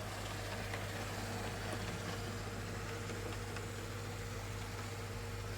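Lima model Class 47 diesel locomotive running on a model railway layout: a steady electric motor hum with the even rumble of its wheels on the track.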